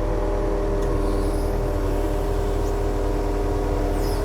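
Yanmar diesel engine running at a steady idle, an unchanging low drone with no revving.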